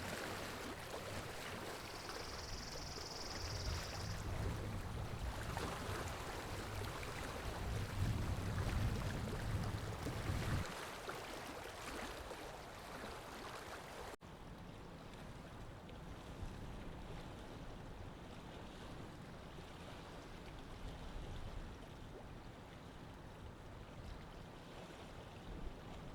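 Outdoor ambience with a low wind rumble on the microphone through the first half, dropping suddenly to a quieter, duller hush about fourteen seconds in.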